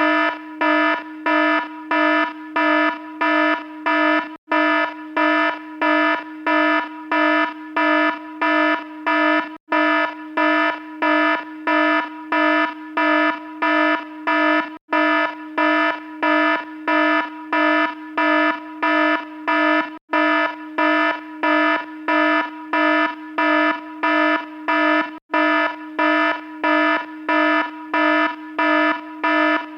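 Electronic alarm sounding a buzzy tone in quick, even pulses, about two a second, with a tiny break roughly every five seconds.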